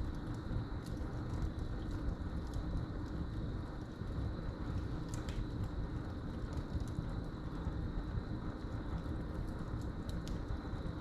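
Wood fire crackling in a fireplace: scattered sharp pops over a steady low rush of the flames, with crickets trilling on one constant high note.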